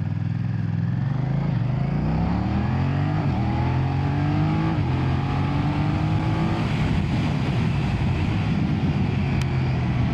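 BMW F900R's 895cc parallel-twin engine accelerating under load: its note climbs, drops at an upshift about halfway through, climbs again, then settles into a steady cruise.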